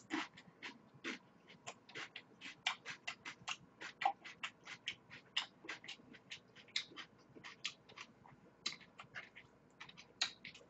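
Close-miked chewing of a mouthful of food: a quick, irregular run of soft wet mouth clicks and smacks, several a second.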